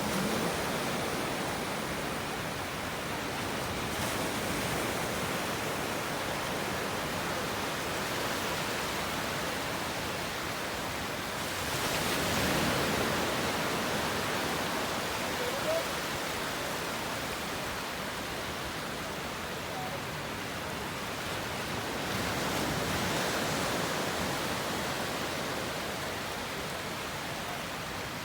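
Ocean surf breaking and washing onto a sandy beach: a steady rush of waves that swells louder about twelve seconds in and again around twenty-three seconds.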